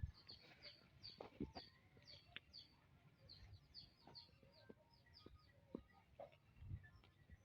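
Faint bird chirping: many short, high chirps that dip in pitch, repeated throughout, with a few soft ticks in between.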